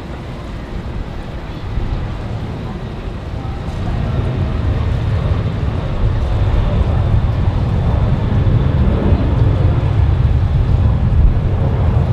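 Jet airliner's engines rumbling, growing steadily louder as the plane draws closer, with a faint high whine over the rumble.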